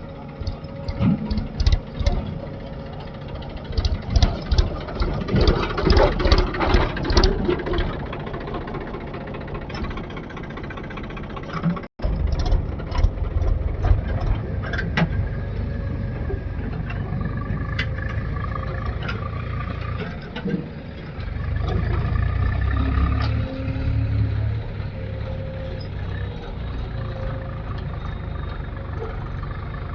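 Heavy diesel engine of a JCB 3DX backhoe loader running, with a series of sharp clanks and knocks over the first several seconds. After a brief break about twelve seconds in, a steady low engine drone follows, swelling louder for a few seconds around two-thirds of the way through.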